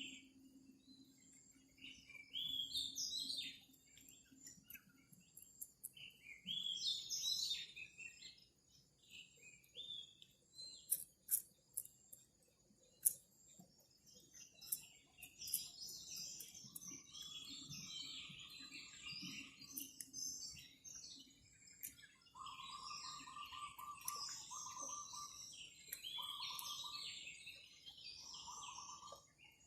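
Several small birds chirping and warbling in high, quick phrases, with a few sharp clicks around the middle. In the second half a lower trilling call repeats in short phrases of one to two seconds.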